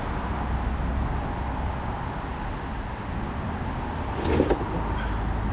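Hydraulic oil running out of the opened fitting on the dump truck's hydraulic pump, over a steady low hum. A brief knock or clunk comes about four seconds in.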